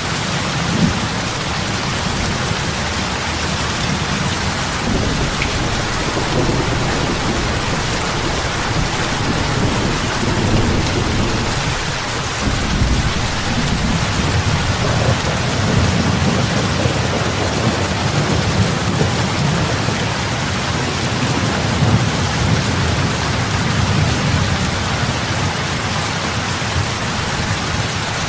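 Heavy rain falling on lake water, a steady hiss of many drops with a deeper low rumble that swells and eases throughout.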